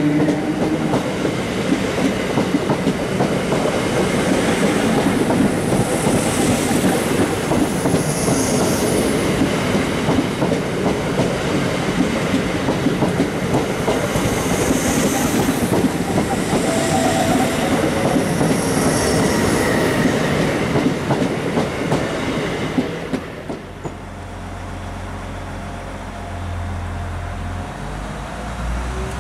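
Royal Mail Class 325 electric postal multiple unit passing along the platform at speed, its wheels clattering over the rail joints with now and then a high squeal. About three-quarters of the way through the sound cuts to a steady low hum from a train standing at a platform, its engine idling.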